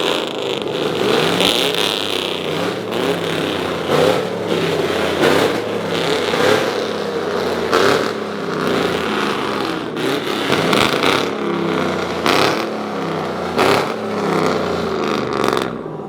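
Vehicle engines running and revving in street traffic, their pitch rising and falling, with repeated short loud bursts.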